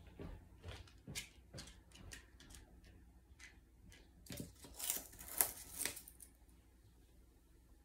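Parrot chewing with its beak: scattered small clicks and snips, with a louder run of crunching clicks around five seconds in.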